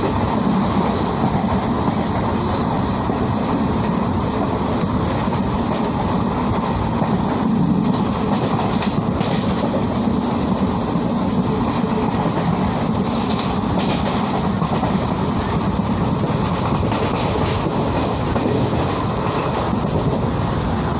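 A passenger train running at speed, heard from inside a carriage by the window: a steady rumble and rattle of the wheels on the track, with a few sharper clacks midway.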